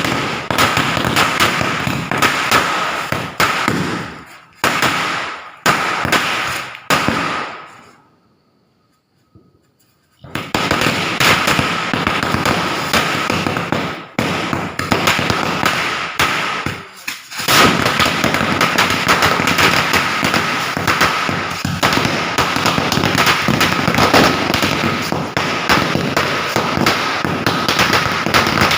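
Firecrackers going off in fast, crackling runs of sharp bangs, with a lull about eight seconds in. After that comes a long, nearly unbroken string of cracks, like a chain of crackers burning through.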